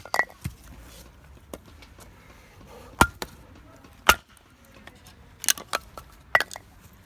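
A series of sharp knocks and clinks at irregular intervals, some with a brief ringing tone, as of hard objects being handled and set down.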